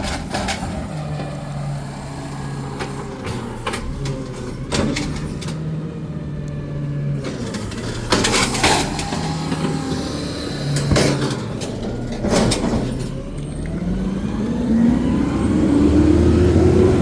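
Garbage truck's diesel engine running with several short, sharp hisses of air. Near the end the engine revs up, its pitch rising steadily.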